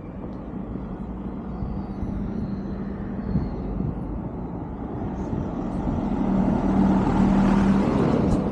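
A vehicle approaching and passing close by, its noise growing steadily louder to a peak near the end and then falling off sharply.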